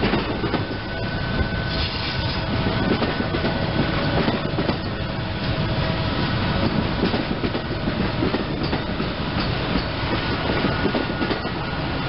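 SEPTA Silverliner electric commuter train running past and pulling away: a steady rumble with wheels clicking over rail joints and a faint steady whine.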